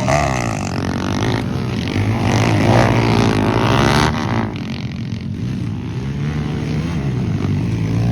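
Motocross dirt bike engine revving, its pitch rising and falling over and over, a little quieter after about four and a half seconds.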